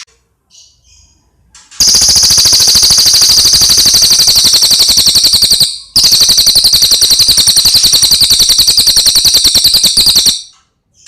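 Cililin song: two long, very fast trills of high notes, each about four seconds, separated by a short break, after a few faint chirps at the start.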